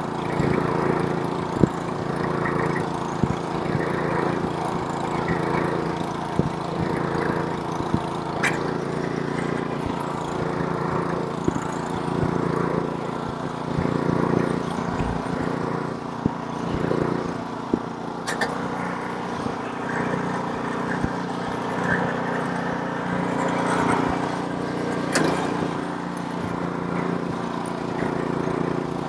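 Snowblower's small gasoline engine running steadily while clearing snow, with a few brief sharp clicks scattered through it.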